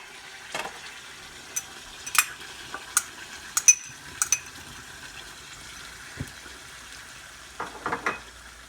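Chicken stew in tomato sauce sizzling steadily in a pan, with a utensil clinking and knocking against the pan about six times in the first half as it is stirred.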